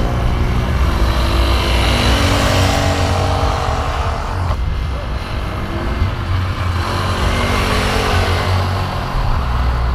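A motor vehicle's engine running loudly with a deep rumble. The sound changes abruptly about four and a half seconds in.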